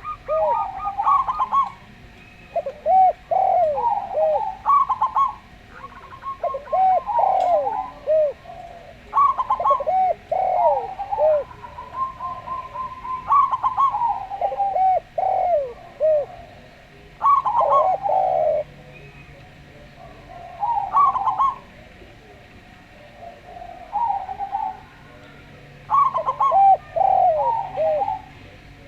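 Zebra dove (perkutut) and spotted dove (derkuku) cooing, phrase after phrase. Each phrase is a run of short, rounded coo notes, some with a longer held note, and short pauses fall between the phrases.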